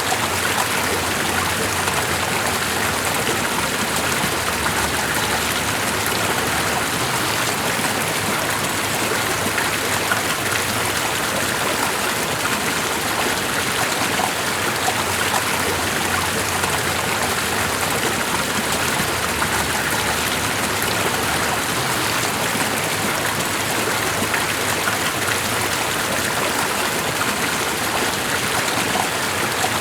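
Flowing water rushing steadily: a continuous, even hiss with fine splashy detail and no breaks.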